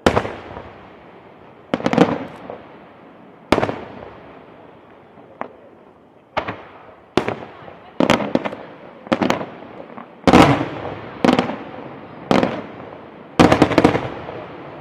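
Fireworks display: about fifteen loud bangs at irregular intervals, some in quick pairs, each followed by a fading echo.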